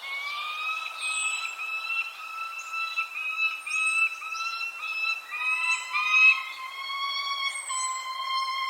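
Birds calling: a thin, high falling chirp repeated about once a second or so, over a run of clear whistled notes that settle into a held whistling tone about five seconds in. The sound starts abruptly.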